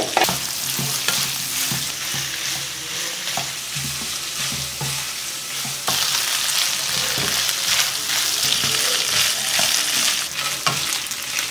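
Chopped tender coconut flesh sizzling as it fries in hot ghee in a pan, tipped in at the start and then stirred with a wooden spatula, with scattered scraping clicks over the steady sizzle.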